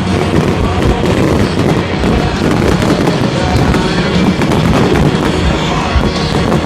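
Fireworks going off in a continuous run of rapid crackles and pops, with music playing underneath.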